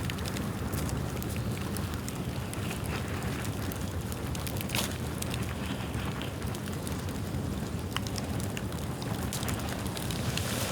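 A bamboo bonfire burning: a steady low rushing of flame with scattered sharp crackles and pops from the bamboo, one louder pop a little under five seconds in.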